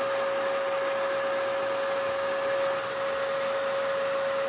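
Spray gun spraying a coat of finish: a steady hiss with a constant hum under it, unchanging throughout.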